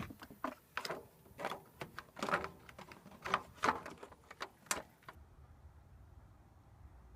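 Irregular clicks and knocks, about a dozen over five seconds, the sound of hand work with hard parts. About five seconds in they stop and only a low steady hum remains.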